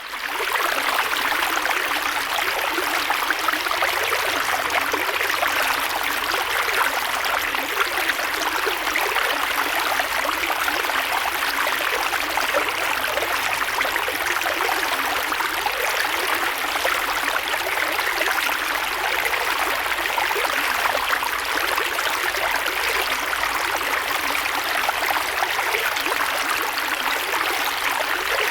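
Creek water flowing and splashing over stones, a steady dense rush with fine splashy detail and little low rumble. It fades in during the first half second.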